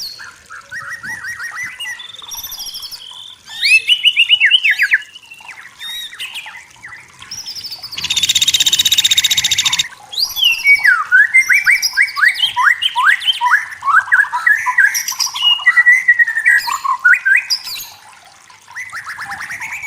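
White-rumped shama singing a varied song of short whistled phrases and fast trills. A harsh rattle of about two seconds cuts in near the middle.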